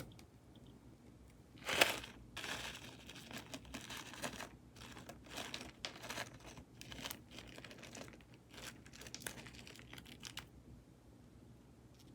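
Hand-handling sounds of a slime and its packaging: a sharp crackle about two seconds in, then irregular crinkling and crackling that stops about ten seconds in.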